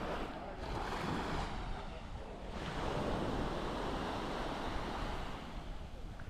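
Small sea waves breaking and washing up a sandy beach, one wash surging louder from about half a second to two and a half seconds in, with wind rumbling on the microphone underneath.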